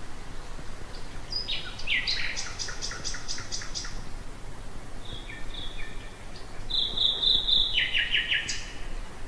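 Common nightingale singing in separate phrases: a fast run of repeated notes, a short pause, then soft notes and a loud held whistle followed by a quick trill. A faint steady low hum lies underneath.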